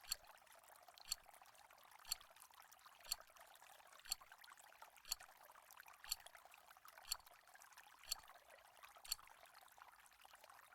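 Countdown timer sound effect ticking once a second, ten ticks in all, over a faint steady hiss.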